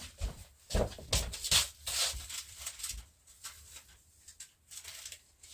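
Rustling and crinkling of groceries and papers being handled, in irregular strokes that are busiest in the first three seconds and then grow fainter.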